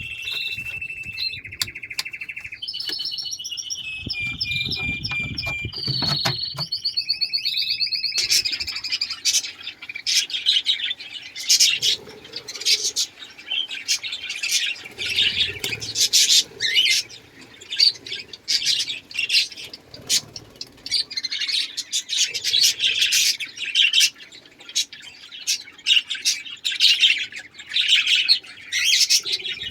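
Caged aviary birds calling. For the first eight seconds or so there are sustained, pitched trilling notes, and after that busy, rapid chirping and chatter.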